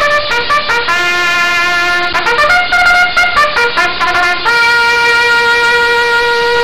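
A short brass-sounding tune, likely trumpet: a run of quick notes ending on one long held note.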